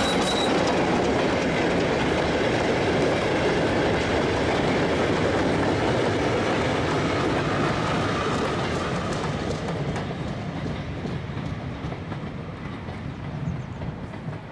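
Train hauled by the BR Class 33 diesel locomotive passing close by: a steady rumble and clatter of wheels on the rails, fading away over the last few seconds. A brief high squeal sounds at the very start.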